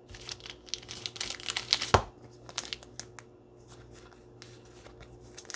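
Crinkling and rustling of plastic card wrappers and sleeves as trading cards are handled, dense for the first two seconds with a sharp click at about two seconds, then a few sparser rustles.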